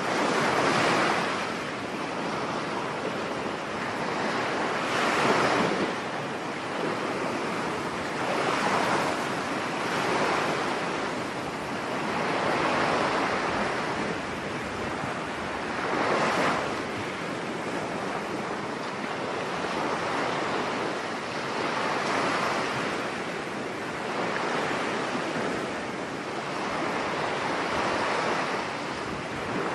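Storm surf on a beach: waves breaking and washing up the shore, a loud surge every three to four seconds over a constant rush of wind.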